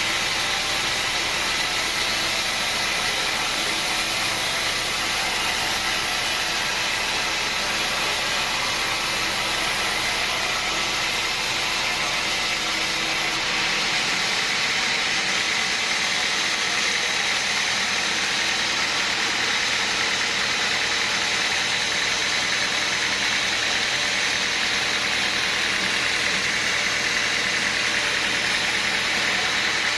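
Sawmill machinery running steadily, an even engine-like drone with a constant high whine above it.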